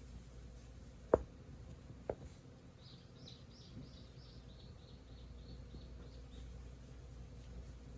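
Two sharp knocks about a second apart, then a bird calling a quick run of about a dozen short, high chirps that slow and drop slightly in pitch, over a faint low hum.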